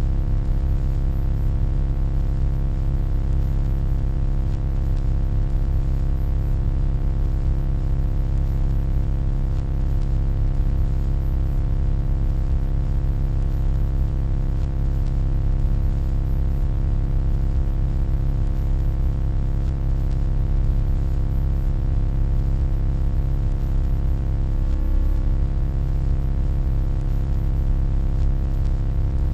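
Steady electronic hum, deep and strongest in the low end, with a dense stack of steady overtones above it; it holds unchanged throughout.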